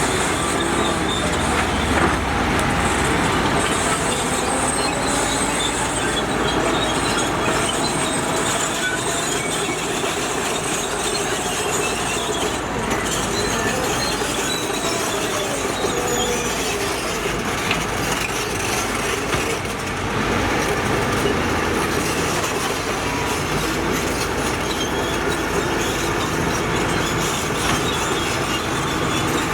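Heavy earthmoving machinery running steadily, with metallic squeals and clatter. The squeals have a slowly wavering pitch.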